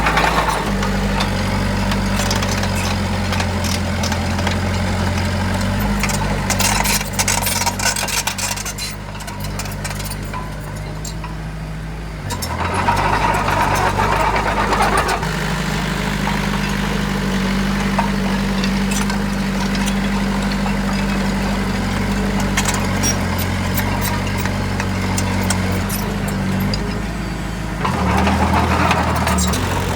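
Heavy diesel engine of a dump truck or bulldozer running under load, its note shifting about twelve seconds in and again near the end, with some rattling along the way.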